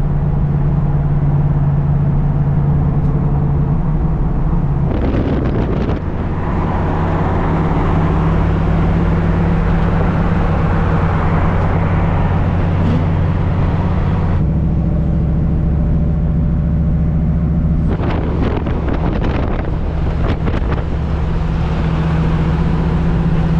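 Twin-turbo Chevy C10 pickup driving, its engine a steady low drone. The engine note changes about five seconds in and again about halfway through, with a rushing noise between those points.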